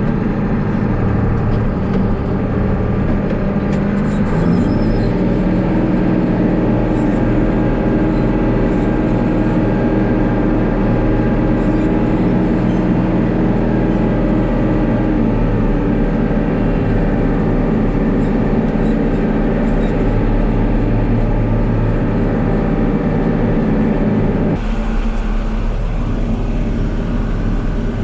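Farm vehicle engine running steadily while hauling manure. Its pitch steps up about four to five seconds in, holds, and the sound changes abruptly near the end.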